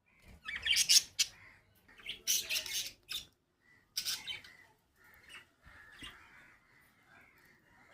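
Small pet parrots chattering, with three loud bursts of harsh squawking and softer chatter in between.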